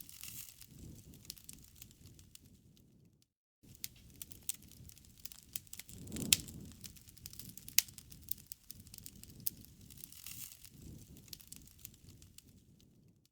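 Crackling bonfire: irregular sharp snaps and pops of burning wood over a soft low rumble of flames, with a louder pop about six seconds in. The sound cuts out completely for a moment a little over three seconds in.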